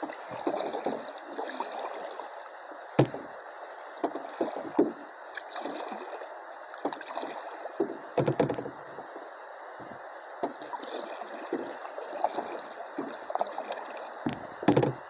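Kayak paddling on flowing river water: steady rushing water with repeated paddle splashes, and a couple of sharp knocks about three seconds in and near the end.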